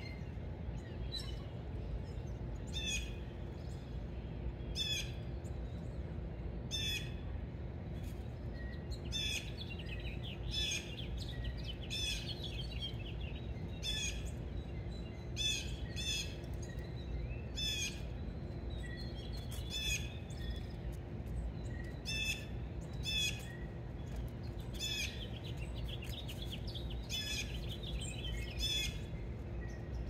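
Birds calling at a feeder: short, sharp chirps repeated about every one to two seconds, over a steady low background rumble and a faint hum.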